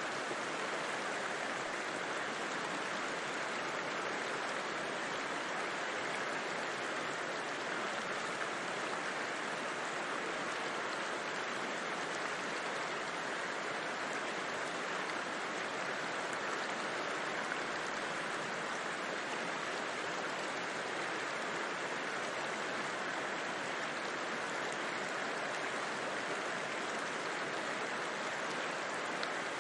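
River water flowing steadily: an even, unbroken rushing wash with no changes in level.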